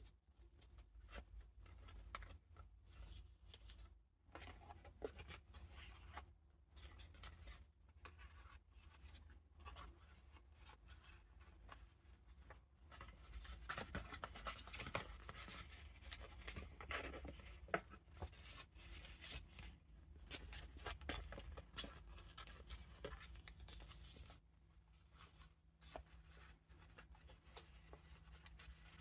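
Pages of a handmade junk journal being turned and handled: paper and card rustling and crinkling, with small taps and brushes. It is busiest and loudest in the middle stretch.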